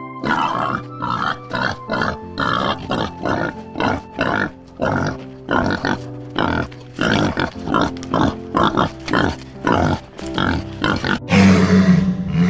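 Wild boar grunting and snuffling as it feeds, in short bursts about two a second, over background music. Near the end a louder, steady low sound begins.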